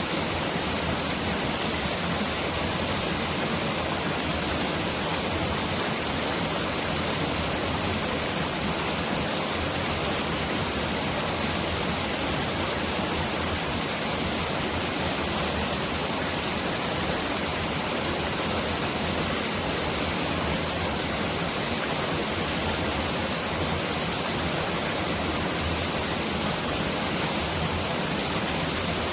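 Mountain valley stream flowing: a steady, even rush of water that sounds like a downpour of heavy rain.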